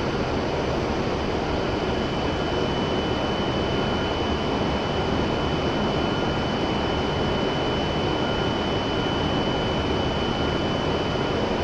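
W7 series Shinkansen train running into the platform: a steady rumble of running noise with a thin, high whine held throughout.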